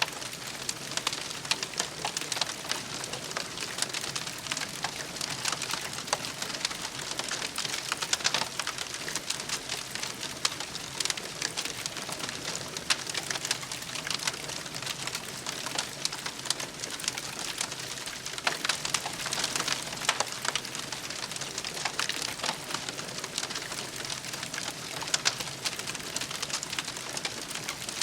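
Wood campfire burning, a dense steady crackle with sharper pops now and then.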